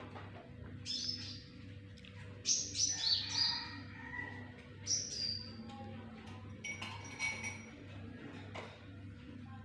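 A bird known locally as burung muncang calling in short phrases of high chirps, each stepping down in pitch. The phrases come about a second in, around two and a half to three and a half seconds in, about five seconds in, and again near seven seconds, over a faint steady low hum.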